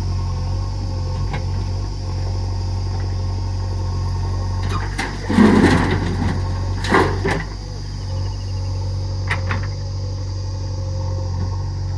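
Heavy diesel engines running steadily. About five seconds in comes a loud burst of clattering noise lasting about a second, and a shorter one follows a second later.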